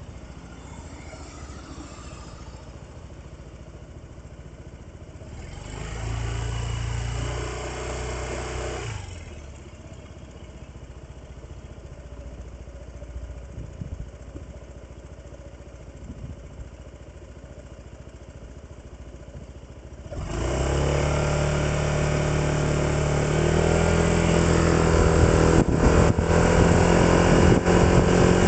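Vehicle engine idling low, with a louder stretch of engine sound about six seconds in that fades after a few seconds. About twenty seconds in it pulls away and accelerates hard, the pitch climbing and stepping up as it shifts gears.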